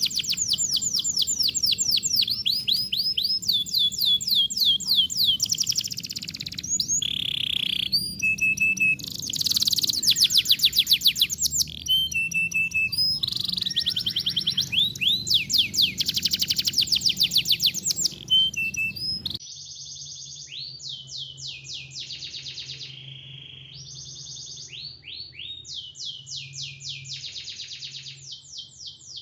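Recorded songbird song played as a masteran tutor track: fast trills of repeated down-slurred whistles and short chirps. About 19 seconds in it switches abruptly to a different, quieter bird recording with similar sweeping trills.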